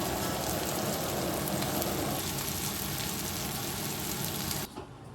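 Food frying in a pan: a steady sizzling hiss that cuts off abruptly near the end.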